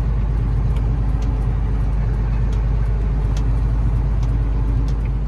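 Truck's diesel engine running with a steady low drone.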